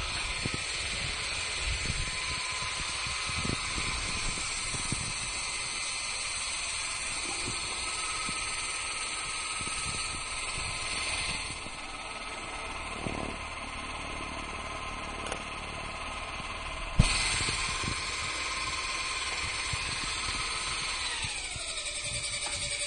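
Home-built electric RC helicopter running, its motor and rotor giving a steady high whine. A single sharp knock comes about 17 seconds in. Near the end the whine falls in pitch as the motor slows.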